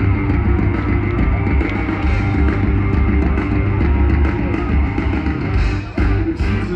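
Live rock band playing loud through a concert PA, with heavy bass and drums.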